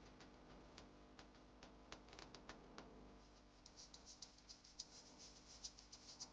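Small repair tools clicking and scratching faintly on a smartphone. There are scattered clicks, then from about halfway a quick run of light, high ticks.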